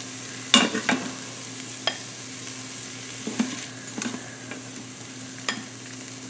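Peas and carrots sizzling in hot oil in an Instant Pot's stainless steel inner pot on sauté, a steady hiss. A nylon spoon scrapes through them and knocks against the pot and a glass bowl several times as they are scooped out.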